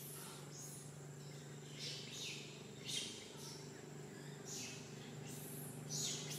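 Bird calls: a series of short, high chirps, each falling in pitch, about six in all, with the loudest about three seconds in and near the end. A steady low hum runs underneath.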